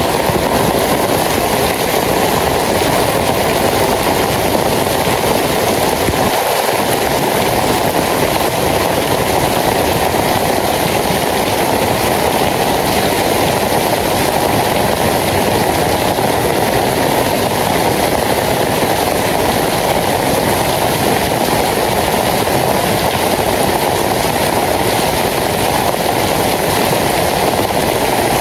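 Steady heavy rain, an even dense hiss that does not let up.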